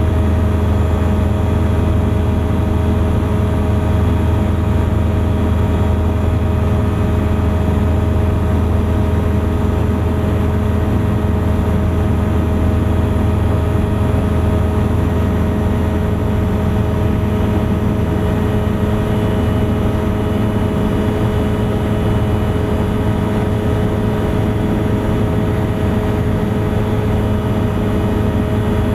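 Thruster ultralight aircraft's engine and propeller running at a steady, unchanging pitch, a loud even drone with no change in power.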